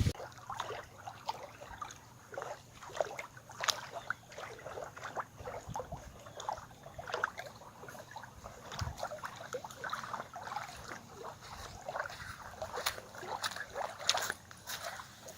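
Water sloshing and lapping: a quick, irregular run of small splashes and drips.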